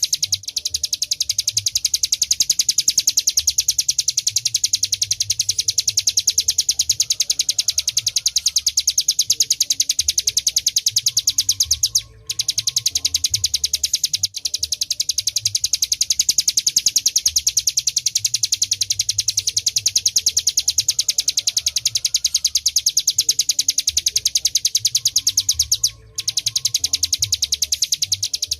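Ciblek gunung (hill prinia) singing its 'ngebren' song: a fast, unbroken drilling trill of high notes, pausing briefly twice.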